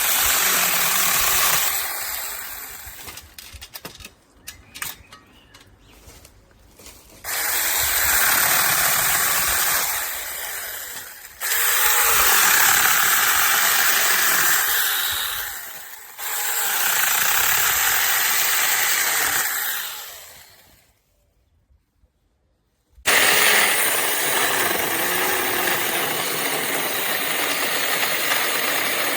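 SEESII 6C10SM 6-inch cordless mini chainsaw running in repeated bursts of several seconds each, with short pauses between them and a few light clicks and rattles in the first pause.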